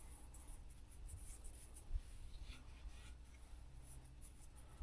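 Faint rubbing and handling sounds of fingers smearing oil onto the rubber sealing gasket of a new oil filter, with one soft tap about two seconds in.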